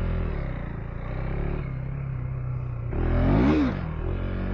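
2025 KTM 390 Enduro R's single-cylinder engine running under way, with a brief rev up and back down about three seconds in.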